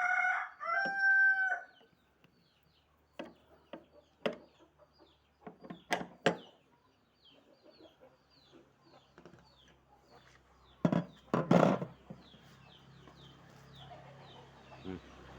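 A rooster crows once at the start. Then come scattered sharp clicks and knocks, loudest near the end, from tightening the refrigerator door's bolts, with faint high chirps repeating in the background.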